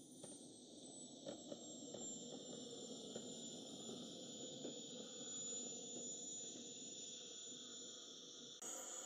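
Faint high-pitched whine that falls in pitch over the first couple of seconds and then holds steady, over a low haze of background noise. Near the end it breaks off abruptly and a new falling whine begins.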